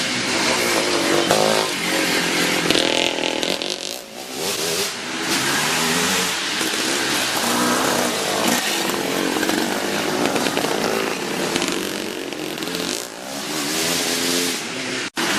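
Several classic two-stroke motocross motorcycles racing on the track, their engines repeatedly revving up and dropping back as they go through the gears and pass by.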